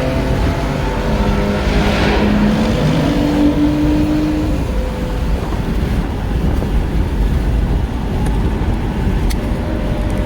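Car driving at speed: a steady engine drone over road noise, the engine note stepping up in pitch about three seconds in.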